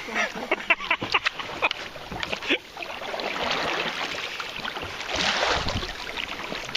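Kayak going through a fast current: quick paddle splashes and knocks on the hull for the first couple of seconds, then a spell of rushing, splashing water.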